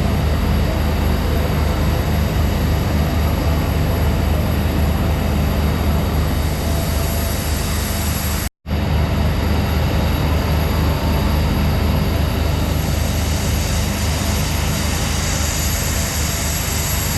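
A train running steadily, a continuous low rumble with hiss, which breaks off for an instant about halfway through.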